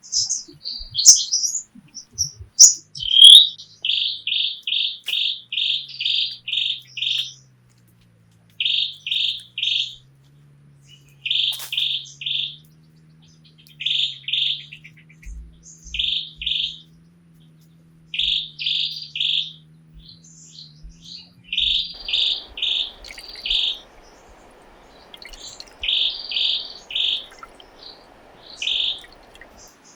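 A bird calling in quick runs of short, high, chirping notes, each run a second or two long and repeated every few seconds, with some higher single notes in between. A faint hiss comes in about two-thirds of the way through.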